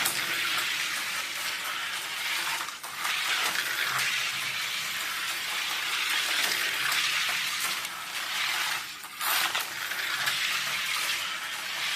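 Slot car running laps on a plastic oval track: a steady hissing whir from its small electric motor and its wide pickup shoes scraping along the rails. The sound dips briefly twice, about 3 and 9 seconds in.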